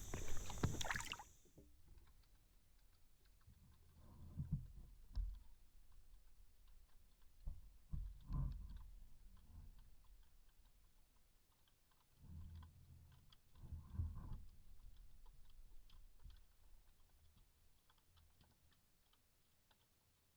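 Faint knocks and clicks of a kayak and its gear in three short clusters, with near silence between them.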